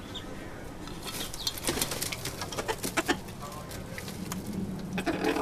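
Chickens feeding: a quick, irregular run of sharp pecking clicks starting about a second in, with a short call from a bird near the end.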